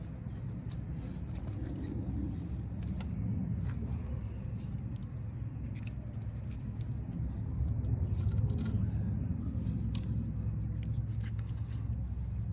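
Wood fire burning in a fire pit, crackling with irregular sharp pops and snaps over a steady low rumble.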